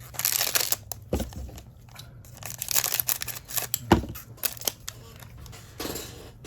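Paper-and-foil trading card pack being torn open and its wrapper crinkled, in several short bursts, with a couple of sharp taps about a second in and about four seconds in.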